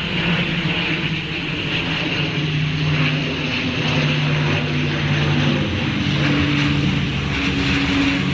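Propeller aircraft flying, a steady loud drone of engines and propellers with low humming tones that shift in pitch partway through.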